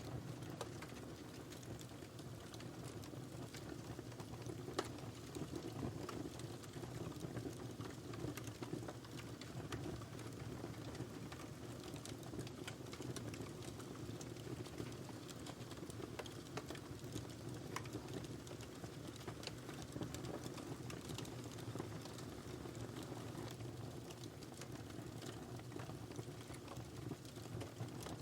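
Wood fire burning in a fireplace: a steady low rush of flame with frequent small crackles and pops scattered throughout.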